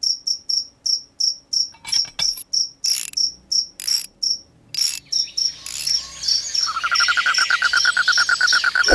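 Insects chirping steadily, short high chirps about three a second, with a few brief clicks and rustles in the middle. A second, lower and faster trill joins near the end.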